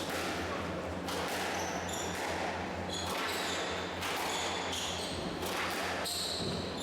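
A squash rally: the ball is struck by rackets and hits the court walls about once a second, with short high squeaks between the shots. A steady low hum runs underneath.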